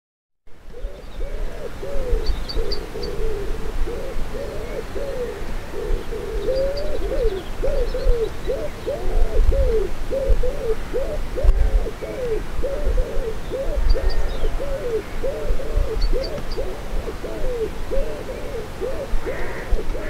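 A bird's low calls repeated steadily, about one and a half a second, with a few short high chirps from small birds and wind rumbling on the microphone.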